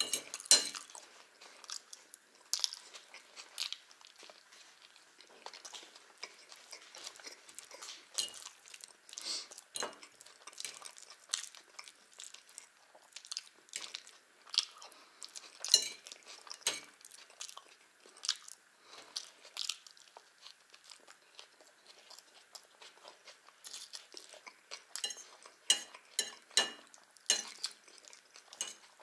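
Close-miked chewing of Olivier salad and bread, with short sharp clicks scattered throughout, a few louder ones from a metal fork knocking against the ceramic plate.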